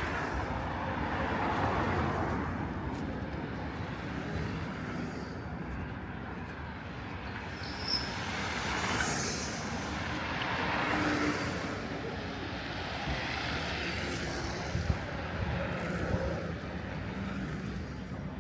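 City street traffic: cars passing one after another, their tyre and engine noise swelling and fading several times over a steady traffic hum.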